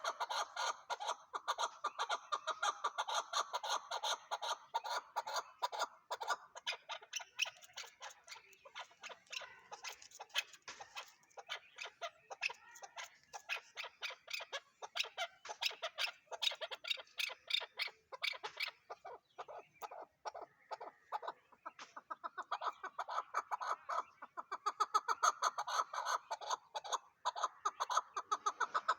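Chukar partridge calling: a fast, continuous series of short clucking notes, several a second, easing briefly about two-thirds of the way through.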